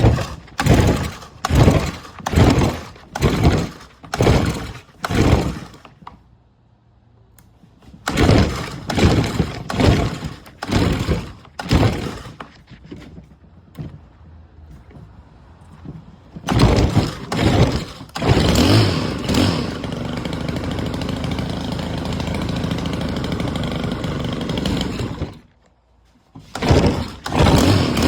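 Stihl HT131 pole saw's small 4-MIX engine being pull-started: a quick series of recoil-starter pulls, a pause, then more pulls. About 16 seconds in it catches and runs steadily, then cuts out suddenly near 25 seconds and is pulled again a few times near the end.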